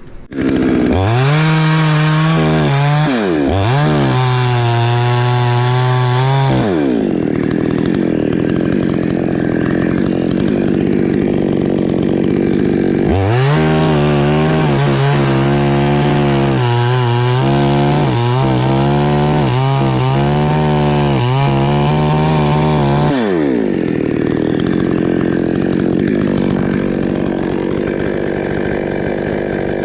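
Two-stroke chainsaw, starting loudly about half a second in and run hard through the coconut trunk. Its engine pitch rises, sags and picks up again repeatedly, with stretches of steadier cutting noise in between.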